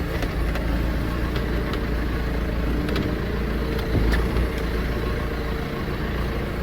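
Tractor engine running steadily with a low hum as the front loader spike is manoeuvred to lift a sheep feeder onto a bale, with a few faint clicks and knocks.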